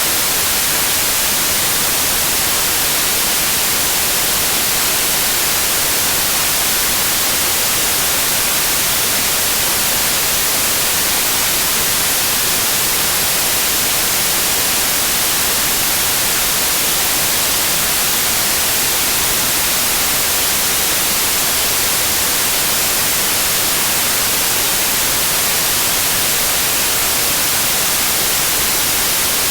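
Steady, unchanging white noise: an even hiss, strongest in the treble.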